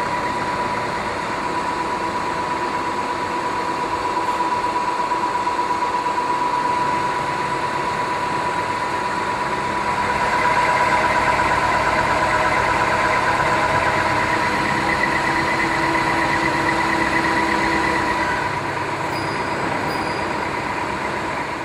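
KNUTH BO 130 CNC heavy boring and milling centre running, a steady machine whine. From about ten seconds in it grows louder and rougher, with extra tones, for several seconds.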